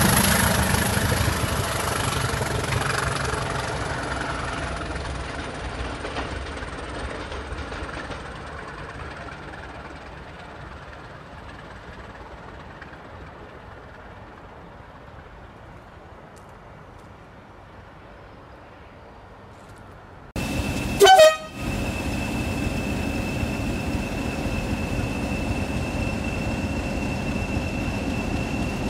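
Class 20 diesel locomotive and its train of tank wagons passing and fading into the distance. About two-thirds through, after an abrupt return of train noise, a short loud horn toot, then a steady rumble with a steady high squeal as the train runs through the platform.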